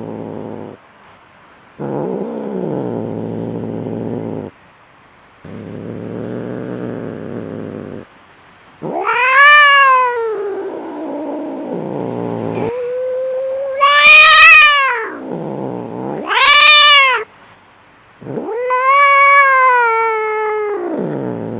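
Cats fighting: three spells of low growling, then loud yowls that rise and fall in pitch, the caterwauling of cats squaring off.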